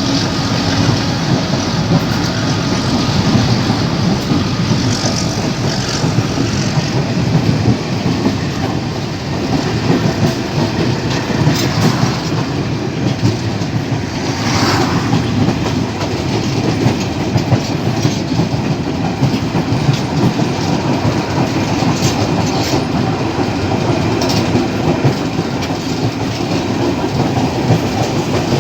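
Old passenger train running along the track, heard from on board: a steady rumble with the clickety-clack of wheels over the rail joints.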